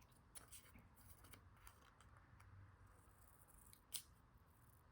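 Faint snips of scissors cutting origami paper, with one sharper snip about four seconds in.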